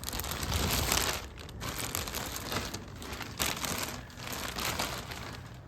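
Plastic sheeting crinkling and rustling as it is handled, in irregular patches of crackle.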